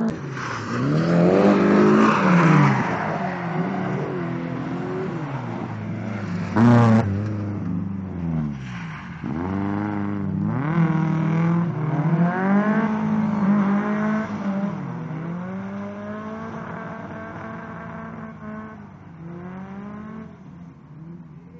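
Toyota KE70 Corolla's swapped Nissan SR20DE four-cylinder engine revving up and falling back again and again through a drift run, with a short loud burst of revs about seven seconds in. The sound fades over the last few seconds as the car draws away.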